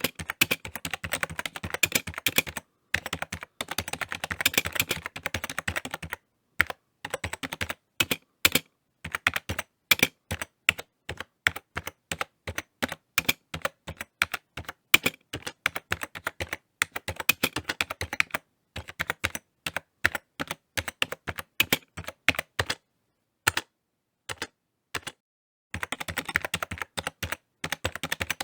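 Typing on a computer keyboard: quick runs of key clicks broken by short pauses, the longest lasting a couple of seconds from about 23 to 26 seconds in.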